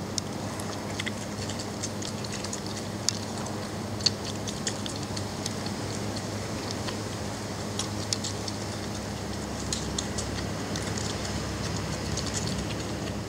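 Belgian Malinois puppies nursing on their mother: scattered small, irregular clicks and smacks over a steady low hum, with two sharper clicks about three and four seconds in.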